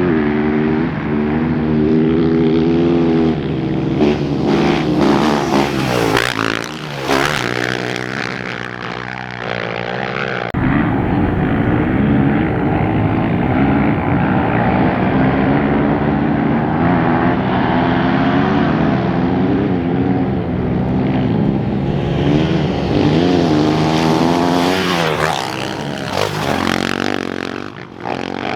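Off-road race motorcycle engines running hard, revving and passing at speed with their pitch sweeping down as they go by, about a third of the way in and again near the end. The engine sound changes abruptly about ten seconds in, then holds a steady drone.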